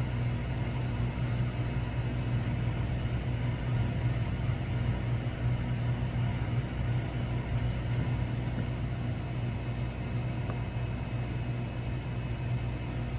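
Steady low mechanical hum with a deep rumble, unchanging throughout.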